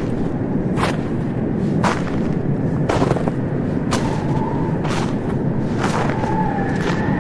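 Footsteps crunching in snow, a short sharp crunch about once a second, over a steady low rumble of background noise.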